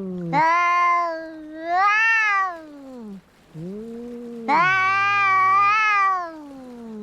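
Two cats caterwauling at each other, the drawn-out yowling of a cat fight: long, wavering calls that overlap and cross in pitch. Loud yowls that rise and fall come three times, the longest a little past halfway.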